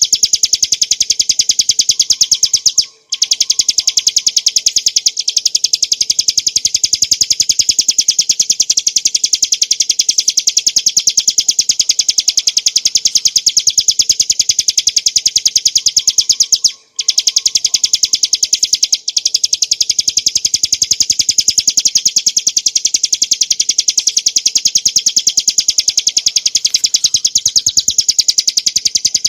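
Ciblek gunung, a small prinia, singing a loud, fast, unbroken run of high, sharp repeated notes. The song breaks off briefly about three seconds in and again about seventeen seconds in.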